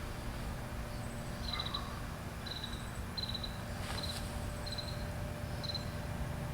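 Cricket chirping outdoors: six short, high chirps in an even series, a little under a second apart, over a steady low background rumble.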